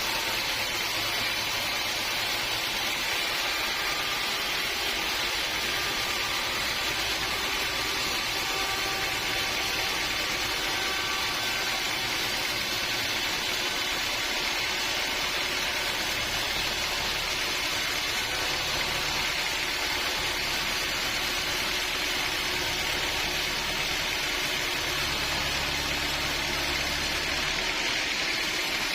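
Sawmill machinery running steadily, a continuous even mechanical noise with no breaks.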